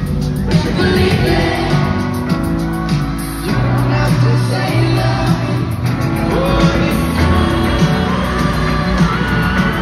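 Live pop concert music, with an amplified band and singing, and the crowd shouting along in a large hall.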